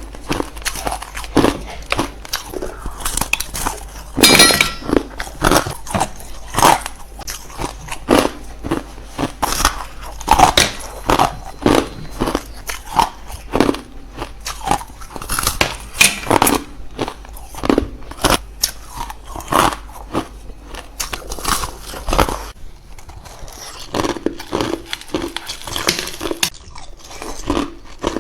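A person biting into ice cubes: a long run of sharp, irregular crunches, about one or two a second.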